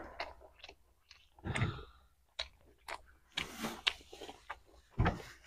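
Close-miked wet chewing and lip-smacking of a handful of rice with curry broth, heard as scattered short clicks and brief smacks.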